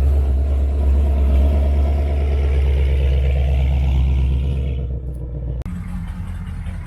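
A car engine running with a loud, deep rumble, its pitch rising slightly over the first few seconds; about five and a half seconds in, it gives way abruptly to a quieter engine sound.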